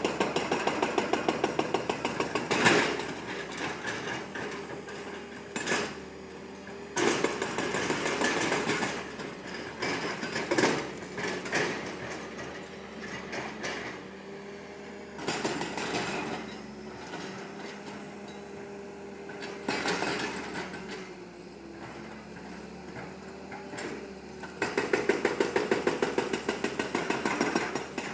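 Excavator running with a steady engine and hydraulic hum, broken by several spells of a few seconds each of rapid, even metallic clattering, with single knocks between them.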